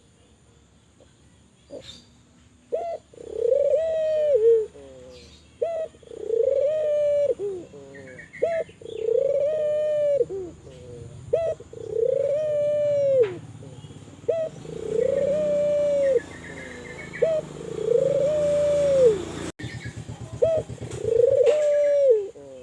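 Spotted dove (tekukur, Kelantan contest strain) cooing: a repeated phrase of a short clipped note followed by a long drawn-out coo, about every two seconds, some eight times.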